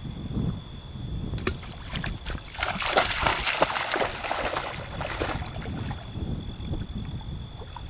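Water splashing and sloshing in a dense spell, fading out after a few seconds, over a steady high insect drone.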